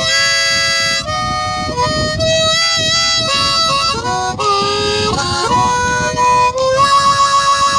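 Blues harmonica playing an instrumental phrase of held and bent notes, with pitches sliding near the middle. From about seven seconds in it holds a chord that pulses about six times a second.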